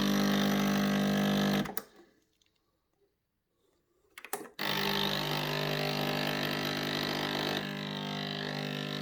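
Sage espresso machine's pump running with a steady buzzing hum while the machine fails to build brew pressure. The hum stops suddenly about two seconds in, and after a couple of clicks about four seconds in it starts again and keeps running; the owner says it doesn't sound very healthy.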